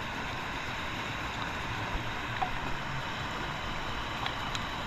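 Steady rushing of river water flowing, with a few faint clicks.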